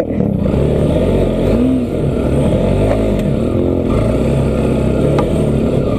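Motorcycle engine under way, its revs rising and falling several times as the throttle is worked over rough ground.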